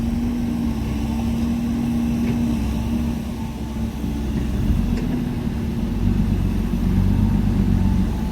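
Dump truck engine running steadily: a low drone with a held hum, growing a little louder about six seconds in.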